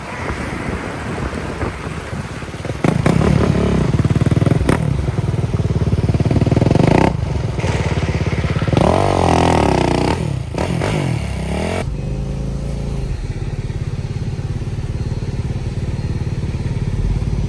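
Motorcycle engine running, getting louder about three seconds in, with its pitch rising and falling around the middle as the throttle is worked.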